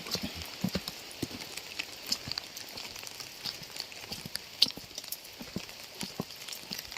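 Rain falling: a steady hiss with irregular drops tapping and knocking on a nearby surface.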